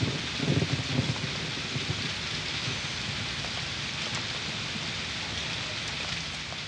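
Steady rain with a low rumble of thunder in the first second or so, beginning to fade out near the end.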